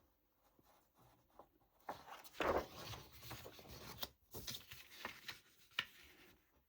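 Sheets of paper rustling and rubbing as they are handled, in soft irregular sounds loudest about two and a half seconds in.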